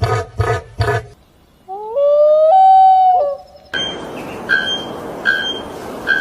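A run of separate animal calls. First a pulsing call repeating about three times a second, then a long pitched call that rises and holds steady, and from about 4 s a short bird call repeated three times, roughly once every 0.8 s, over a steady hiss.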